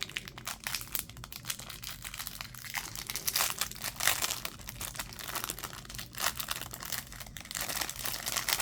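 Plastic wrapping crinkling and rustling in irregular crackles as a small item is handled and unwrapped.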